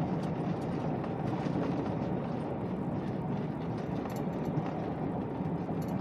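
Pickup truck with a camper driving on a dirt road, heard from inside the cab: a steady rumble of engine and tyre noise with light rattles.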